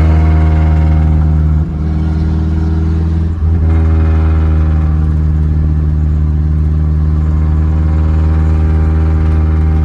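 Pickup truck's exhaust droning loudly and steadily on the road, with two brief breaks about one and a half and three and a half seconds in. The owner jokes that it is his Jake brake and that his truck is a big rig.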